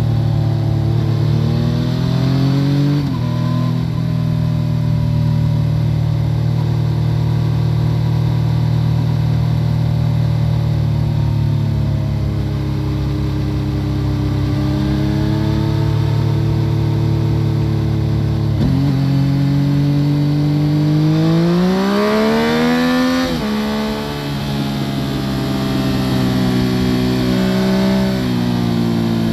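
2014 Yamaha FZ-09's three-cylinder engine through an Akrapovic full exhaust system, heard from under the seat while riding. Its pitch climbs and then drops suddenly with upshifts about three seconds in and again near the middle, and it holds a steady cruise in between. Near the end it revs hard in a long rising pull, then drops back and carries on steadily.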